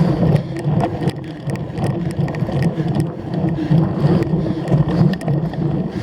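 Cyclocross bike being ridden over rough ground: a steady rumble from the tyres and frame with many short rattling clicks as it jolts along.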